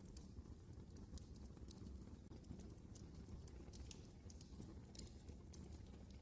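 Wood fire burning in a fireplace: faint irregular crackles and pops, several a second, over a low steady rumble of the flames.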